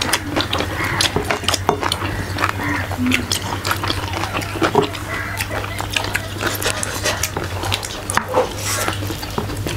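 Eating sounds of people chewing pork ribs and rice: a steady run of wet mouth clicks and lip smacks, over a low steady hum.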